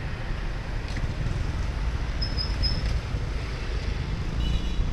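Street traffic rumbling steadily with wind buffeting the microphone, and a few short high chirps a little after two seconds in.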